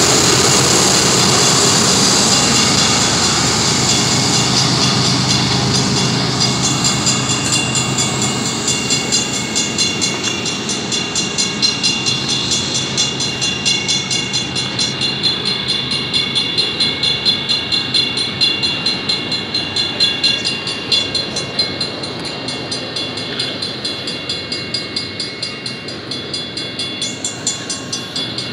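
A GE ES44DC diesel-electric locomotive runs past, its engine fading over the first few seconds. Double-stack container well cars follow, their wheels clacking over the rail joints in a steady rhythm.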